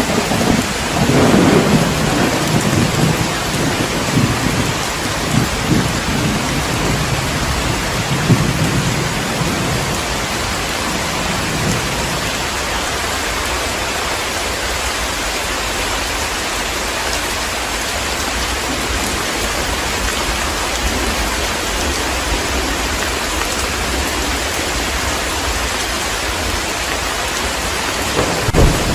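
Heavy rain pouring steadily, with thunder rumbling low in the first part that fades out about halfway, and a new thunder rumble starting near the end.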